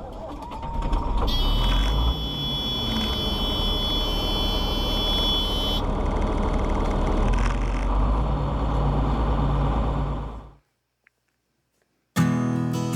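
New Holland PowerStar 75 tractor just after its engine stalled: a steady low rumble, with a high-pitched steady warning buzzer sounding for about four and a half seconds starting a second in. The rumble cuts off suddenly near the end.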